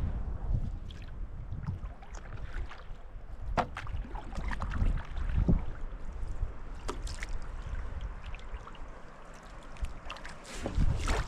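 Wind buffeting the microphone in a low rumble, with scattered short splashes and knocks of paddle strokes in shallow water. The rumble swells near the end.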